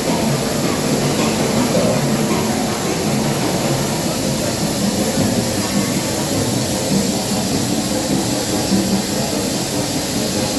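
Willans air-blast diesel engine running steadily on two cylinders, a continuous mechanical clatter with a hiss over it.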